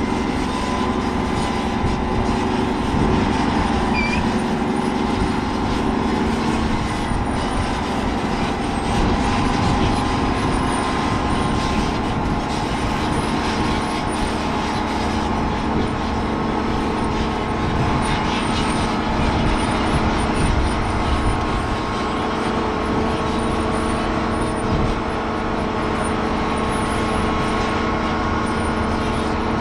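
Heavy diesel farm machinery running steadily under load, a constant engine drone with rumble.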